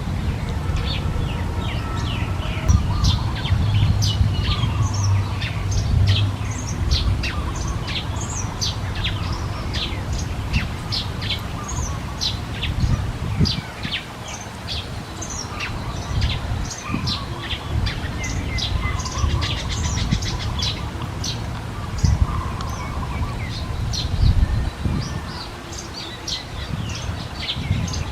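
Small birds chirping: a dense series of short, high, thin chirps, many sliding down in pitch, over a low rumble.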